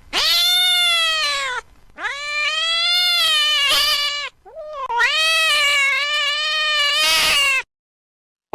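Domestic cat meowing in three long, drawn-out yowls, each lasting about two seconds, followed by a second of dead silence near the end.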